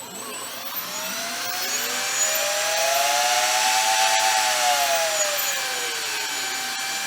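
Brushless motors of a quadcopter's 50 mm ducted-fan units, QX-Motor 4600KV, running without impellers. Their several whines sit at slightly different pitches: most rise together to a peak about four seconds in and then fall away, while one holds a steady pitch. The flight controller is driving the motors unevenly, which the builder takes to be it trying to lift one corner off a crooked table.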